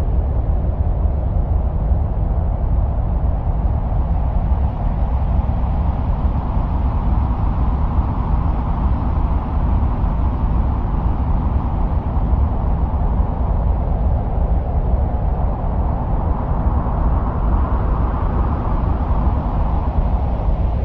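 Steady wind-like rushing noise presented as the sound of Mars, with a deep rumble underneath. It slowly swells and eases a couple of times.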